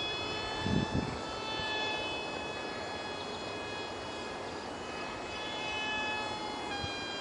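Ultra-micro RC foam jet's 8 mm motor spinning a direct-drive prop, giving a steady high whine that shifts in pitch with throttle. The pitch changes again near the end, over a haze of wind-like noise, with a couple of low thumps about a second in.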